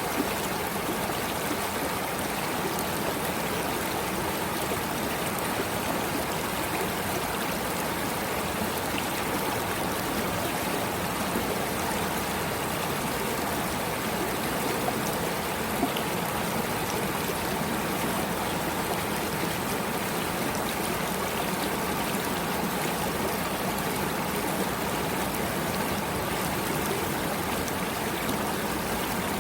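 Running water flowing steadily and unchanging, with a few faint ticks.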